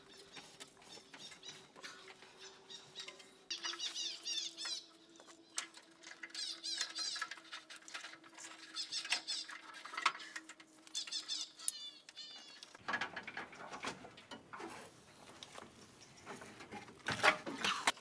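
Small birds singing in repeated short trilled phrases, over light rustling and clicks of cable being handled under a vehicle. The rustling and knocking grow louder near the end.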